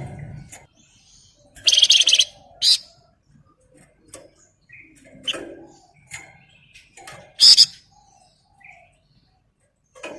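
Caged flamboyan songbird singing in short, varied phrases broken by loud buzzy rattles (ngebren), the strongest about two seconds in and again near three-quarters of the way through, with quieter chirps and whistles between.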